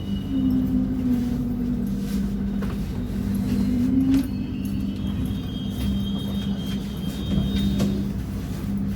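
Passenger train running: a steady low rumble with a constant hum, and a faint high whine in the second half.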